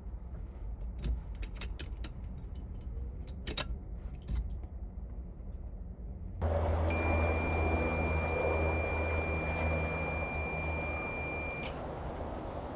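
Keys jingling and clicking for about six seconds. Then a louder low hum comes in, and over it a steady high electronic beep tone sounds for about five seconds before cutting off.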